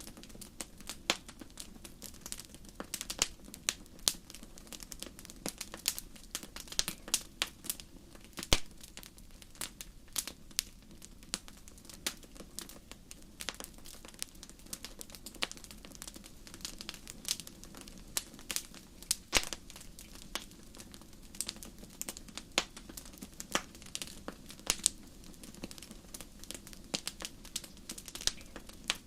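Wood campfire crackling steadily, with frequent sharp pops at irregular intervals over a low, soft rush of flame, a few pops standing out louder than the rest.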